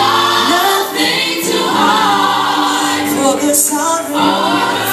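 Choir singing a gospel worship song with musical backing, the voices holding long notes.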